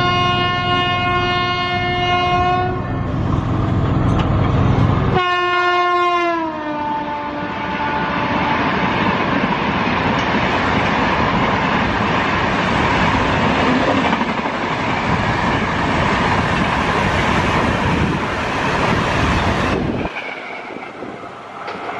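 Rajdhani Express train passing at full speed. The locomotive's horn sounds one long blast, then a second blast about five seconds in whose pitch drops as the locomotive goes by. The coaches then rush past with a steady roar and wheel clatter, which cuts off suddenly near the end.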